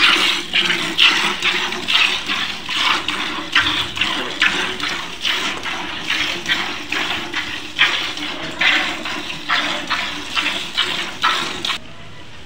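A cow being milked by hand, the teats squeezed in the fist, sending streams of milk squirting in a steady rhythm of about two squirts a second.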